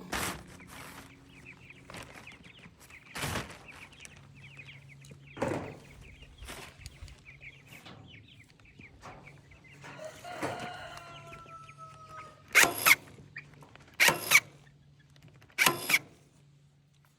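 Chickens clucking, with a short falling call about two-thirds of the way in, over a low steady hum. Sharp knocks break in now and then, and three loud ones come close together near the end.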